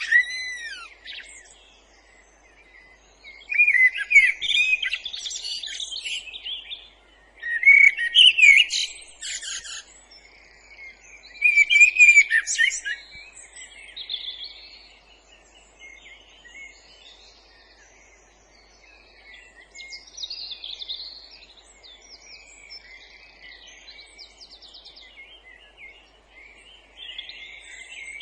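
Woodland songbirds singing: three loud, varied song phrases a few seconds apart in the first half, followed by fainter, scattered song.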